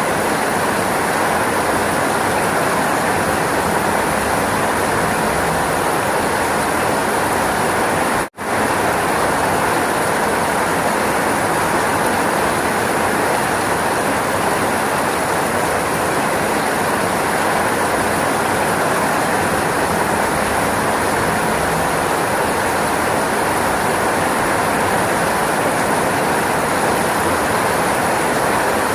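Steady rainfall, an even, unbroken hiss with no distinct drops or thunder. It cuts out completely for a split second about eight seconds in, then resumes unchanged.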